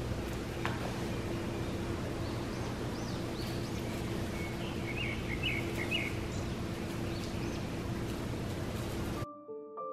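Outdoor ambience: birds chirping in short bursts over a steady background hiss. It cuts off abruptly near the end, and piano music begins.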